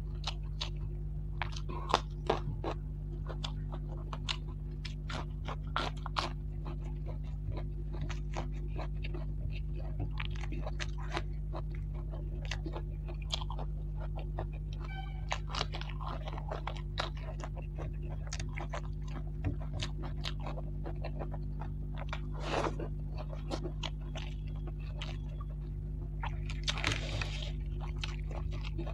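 Close-miked chewing and crunching while eating a meal of deep-fried rohu fish and rice by hand: many small sharp crunches and wet mouth clicks, a few louder ones about two seconds in and a longer crackly stretch near the end. A steady low hum runs underneath.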